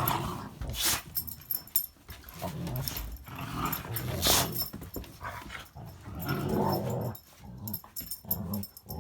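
Two dogs play-growling in bouts of a second or two at a time, with a few sharp knocks in between.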